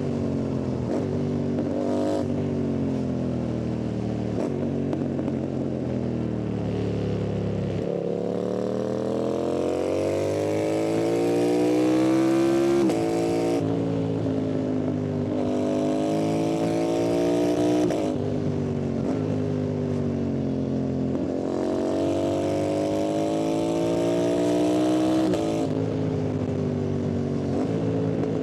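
Yamaha MT-07 parallel-twin engine under way. The engine note falls for the first several seconds as it slows. Then it pulls hard three times, the pitch climbing and dropping suddenly at each upshift.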